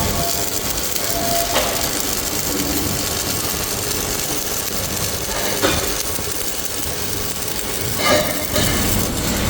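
Steady hissing workshop machine noise with a few sharp knocks, the loudest about five and a half and about eight seconds in.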